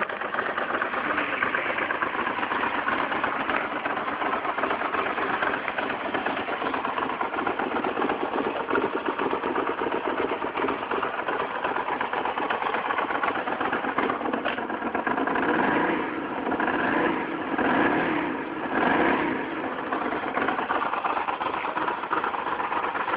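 Ducati Monster 620's air-cooled V-twin running on its original exhausts, idling steadily, with a few throttle blips that swell and fall between about two-thirds and four-fifths of the way through.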